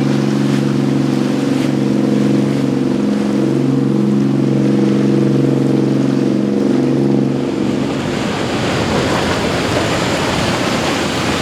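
Powerboat engines running at a steady pitch, which drop out about seven and a half seconds in, leaving an even rush of waves and wind.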